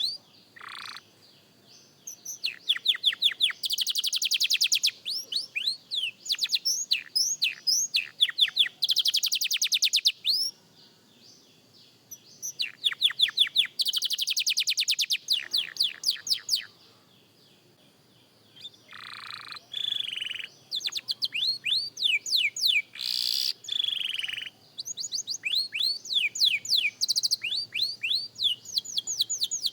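Young canary singing: phrases of rapid, evenly repeated notes and buzzy trills, broken by a few short pauses.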